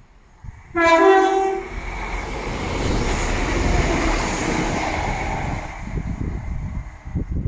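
A passing train sounds a short two-note horn blast, low then high, about a second in. It then rushes past at speed, its wheel and air noise swelling and fading away.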